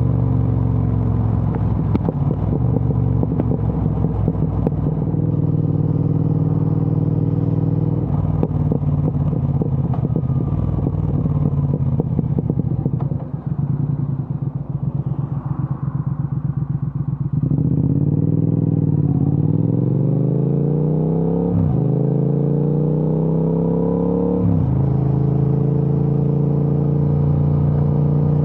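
Triumph Speed Twin 1200's parallel-twin engine through an aftermarket Vance & Hines exhaust, heard from the saddle. It runs steadily, then at low revs with a rapid pulsing from the exhaust, then revs rise through two upshifts, each a sudden drop in pitch, and it settles into a steady cruise.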